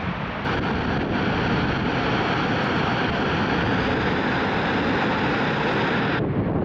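Steady roar from the active crater of Mount Bromo volcano, the rushing sound of the vent that is heard as "the lava". It starts abruptly about half a second in and cuts off sharply shortly before the end.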